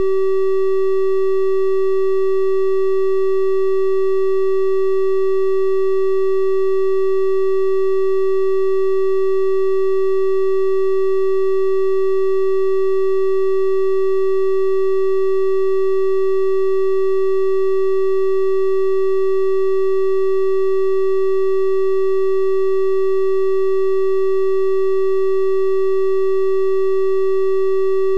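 Synthesized 384 Hz triangle-wave tone, held at one steady pitch and level, with faint evenly spaced overtones above it.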